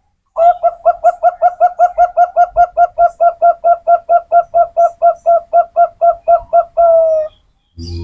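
Zebra dove (perkutut) calling a rapid run of short coos, about four a second, ending in a longer, slightly falling note near the end.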